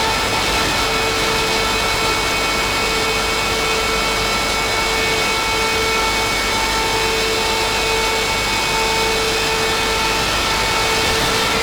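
Harsh noise drone from DIY noise synthesizers run through distortion pedals: a dense, steady wall of noise at an even, loud level. Several held tones sit on top of it, and the lower ones cut out and come back every second or two.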